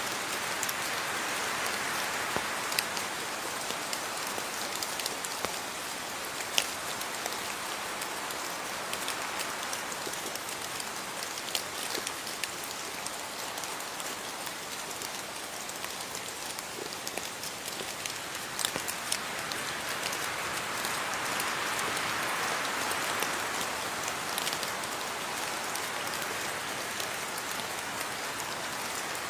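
Steady rain falling, with sharp taps of single drops striking close by every few seconds. The rain swells louder for a few seconds near the start and again about two-thirds of the way through.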